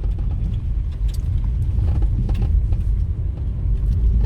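Steady low rumble of a vehicle on the move: engine and road noise, with faint light rattles.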